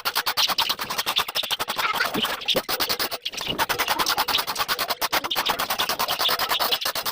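Rapid, repeated scraping strokes: dried budgie droppings being scraped off with a scraper.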